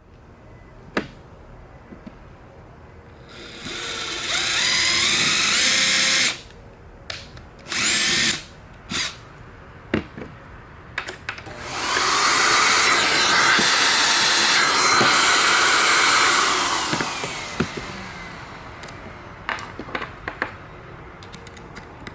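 Power drill running in several bursts, the longest about five seconds near the middle, its motor pitch rising and falling. Short knocks and clicks fall between the bursts.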